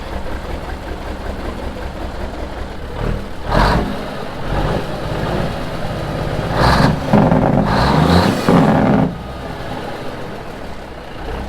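Big Cam 400 Cummins inline-six diesel in a 1976 Kenworth W900A, running through 7-inch straight stacks shortly after a cold start. It idles steadily, is blipped up briefly about three and a half seconds in, then runs louder for a longer stretch from about six and a half to nine seconds in, and settles back to idle.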